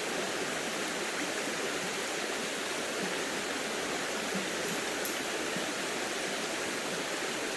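Stream water rushing steadily, an even unbroken wash of sound.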